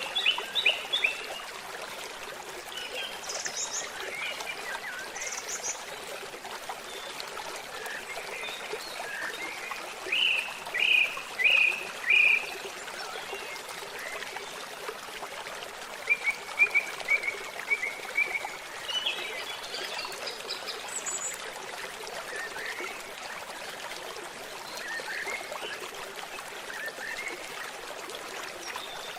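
A babbling stream trickling steadily, with birds singing over it in scattered chirps and short runs of notes.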